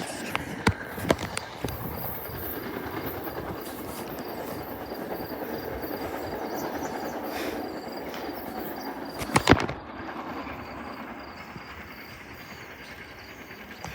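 Silverliner IV electric commuter train running on the track, its wheels clacking over rail joints: a few sharp clacks about a second in and a loud cluster a little past halfway, with the train's sound slowly fading after that.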